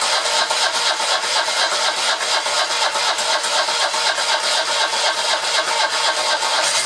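Citroën 2CV van's air-cooled flat-twin engine being cranked on the starter motor with an even, regular beat, turning over without catching, a sign of fuel not reaching the engine.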